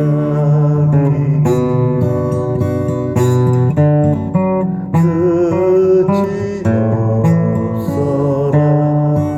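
Acoustic guitar strummed in steady chords, with a voice singing a slow melody over it.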